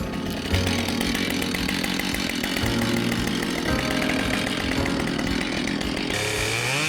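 Husqvarna chainsaw cutting through downed tree trunks, its engine note shifting as it bites into the wood, rising and falling again near the end. The saw is new and still being broken in.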